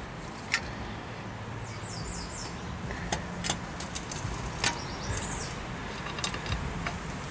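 Outdoor background with a steady low hum, a few sharp light clicks, and a bird chirping short quick falling notes, in a run of about five about two seconds in and again near the middle.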